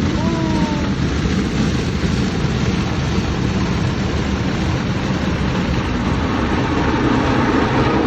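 Automatic car wash machinery working over the car, heard from inside the cabin: a loud, steady rushing noise of water and equipment.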